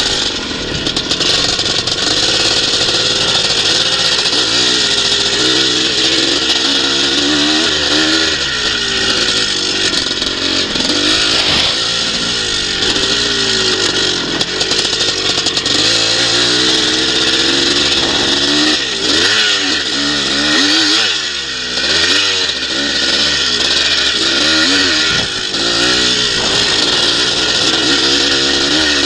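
Motocross bike engine revving hard, its pitch rising and falling with the throttle as the bike is ridden round the track, with a brief ease-off now and then, under a steady rush of wind noise on the bike-mounted microphone.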